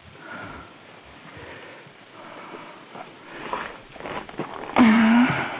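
Hens shuffling and pecking about in their winter pen: soft rustling with scattered small clicks, then a short, louder low-pitched vocal sound a little before the end.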